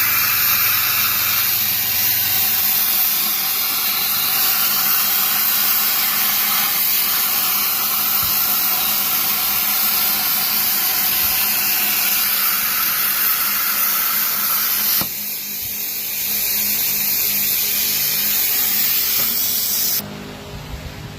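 Steady, loud hiss that dips about fifteen seconds in and cuts off near the end.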